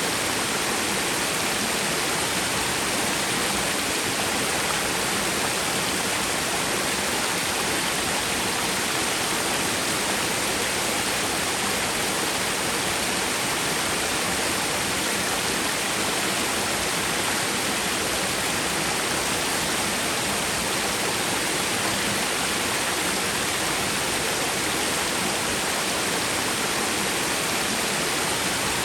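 Small twin waterfall in a mountain stream, water pouring and splashing steadily with an even hiss.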